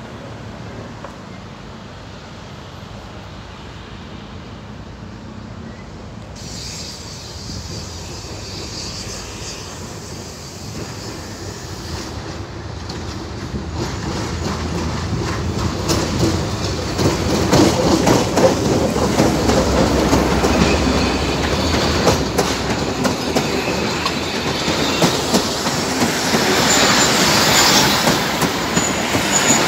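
Diesel-hauled Egyptian National Railways passenger train approaching and passing close by, growing steadily louder through the first half. The locomotive's low engine rumble passes, then the coaches' wheels clatter over the rail joints, with a high wheel squeal near the end.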